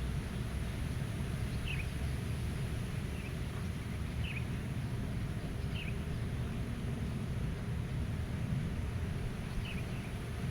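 Outdoor meadow ambience: a steady low rumble of wind, with a bird giving a handful of short, high chirps every second or two.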